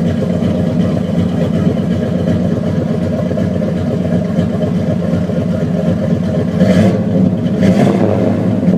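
Chevy V8 with straight-piped headers running loud and rough at idle, with two short throttle blips near the end.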